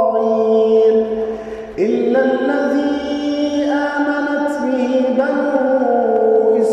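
A man's voice chanting Quran recitation in melodic tajweed style, holding long drawn-out notes that step between pitches. There is a brief pause about two seconds in.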